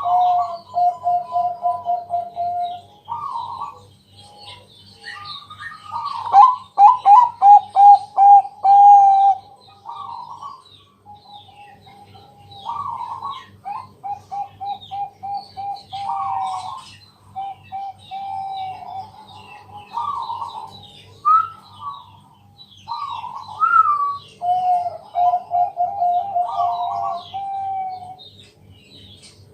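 Zebra dove (Bangkok perkutut) cooing in repeated phrases, each a quick run of rolling notes, one after another. The cooing is meant as a lure to set other perkutut singing.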